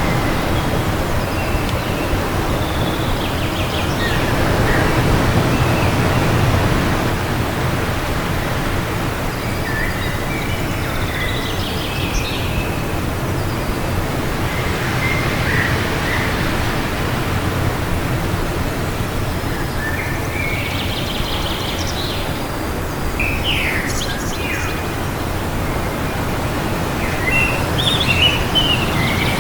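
Wind blowing steadily with a low rumble, while small birds give short, scattered chirps every few seconds, most busily near the end.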